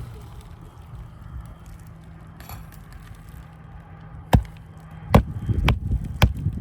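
Hammer blows driving a roofing nail into an asphalt architectural shingle: one strike past the middle, then three quick strikes in a row near the end, setting the nail flush.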